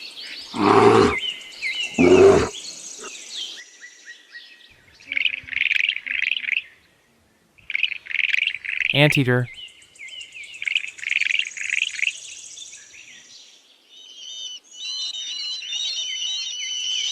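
A bear growling twice, two loud rough calls in the first few seconds. Birds then chirp and call for the rest of the clip, ending in a fast, steady run of high chirps.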